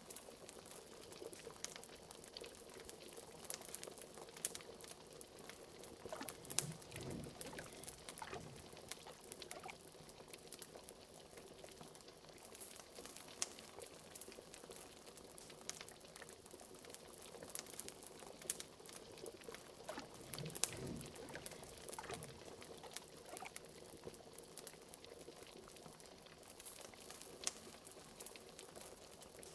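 Bubbling of a cauldron of liquid on the boil, with a few deeper gloops, over scattered crackles and snaps from a wood fire.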